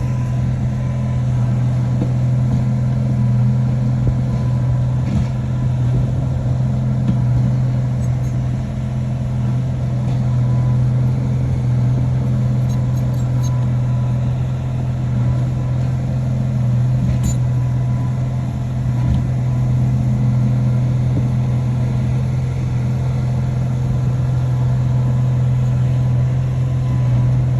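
A bulldozer's heavy diesel engine running steadily at a constant speed, a loud even drone with no revving.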